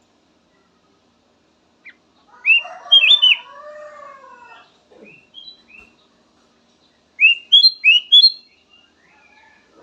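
Kutilang emas, a bulbul, singing: a burst of bright, rising whistled notes about two and a half seconds in, with a lower warbling phrase under it, and a second quick run of rising notes about seven seconds in.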